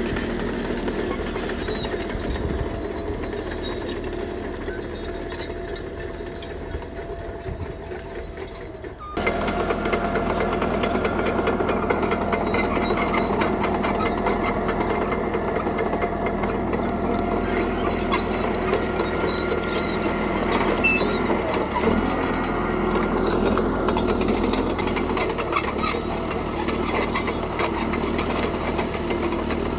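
CAT D3K crawler bulldozer's diesel engine running steadily. It fades a little, then comes in abruptly louder about nine seconds in.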